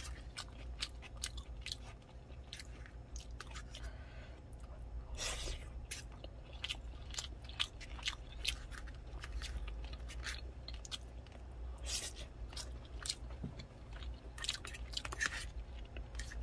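A person chewing a mouthful of rice and konjac noodles close to the microphone, with many small wet mouth clicks and smacks scattered throughout.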